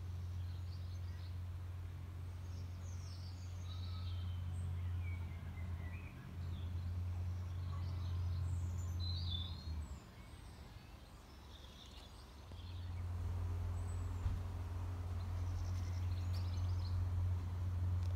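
Birds chirping and singing throughout, over a steady low rumble that drops away for a couple of seconds in the middle.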